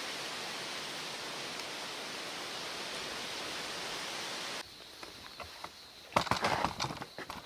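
Steady rushing noise of strong mountain wind that cuts off abruptly about four and a half seconds in. A quieter background with a thin, steady, high insect trill follows, and near the end a short cluster of rustles and knocks, the loudest sounds.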